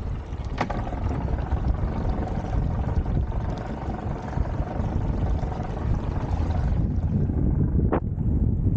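Wind rumbling on the microphone over a boat's motor running steadily, with a brief sharp knock near the end.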